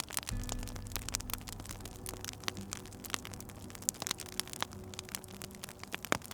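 Wood fire crackling with frequent sharp pops, over soft sustained background music whose low held notes come in just after the start.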